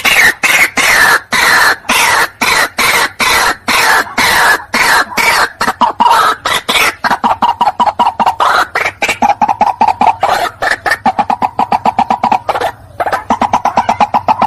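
White-breasted waterhen calling: a loud unbroken series of short repeated croaking notes, about three a second at first and quickening to about six a second after the middle, with a brief break near the end.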